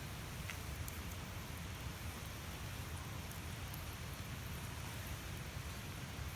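Wood campfire burning: a steady hiss with a few faint pops.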